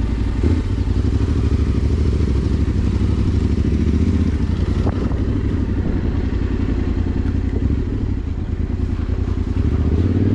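A combustion engine running steadily close by, with a fast, even, choppy pulse.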